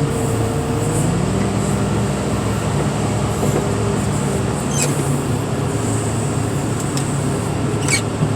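Heavy equipment engine running steadily under load with a thin whine over it; the engine note steps up about a second in. Two short metallic clicks come near the middle and near the end.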